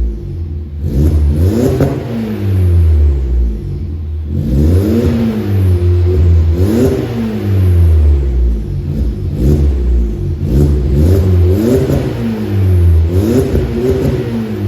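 SEAT Leon FR's 1.4 turbocharged four-cylinder petrol engine, breathing through a custom aftermarket exhaust, revved in a series of short blips that rise and fall back about every one to two seconds.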